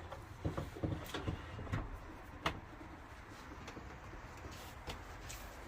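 Scattered sharp clicks and knocks of metal hardware being handled and fastened, as stainless steel angle brackets secure an aluminium-extrusion bed frame to the van wall; they come thick in the first couple of seconds, the sharpest about two and a half seconds in, then thin out over a low steady hum.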